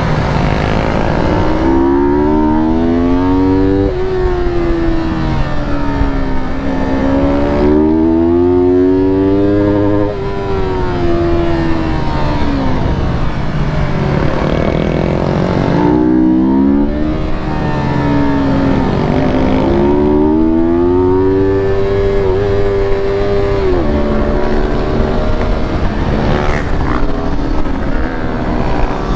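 Yamaha R3 sport bike's parallel-twin engine being ridden hard: the pitch climbs under acceleration, drops at each upshift or when the throttle comes off, then climbs again, several times over, above a steady rushing noise.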